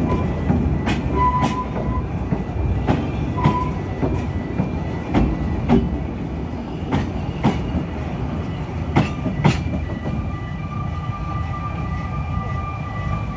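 Narrow-gauge railway carriage running along the line, its wheels giving a steady rumble and a clickety-clack over the rail joints: pairs of clicks about half a second apart, roughly every two seconds. A thin high squeal comes and goes, holding through the last few seconds.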